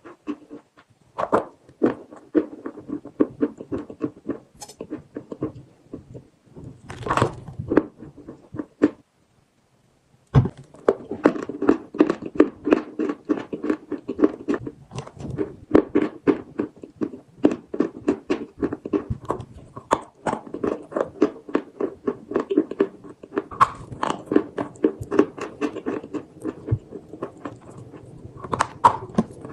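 Chalk with paste being chewed close to the microphone: a dense run of rapid crunches. There is a short break about nine seconds in, and the crunching starts again about a second later.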